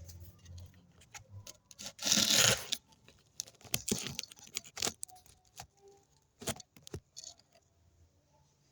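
Delivery package being handled and torn open: a loud rip about two seconds in, followed by scattered crinkling and small clicks as the wrapping is worked.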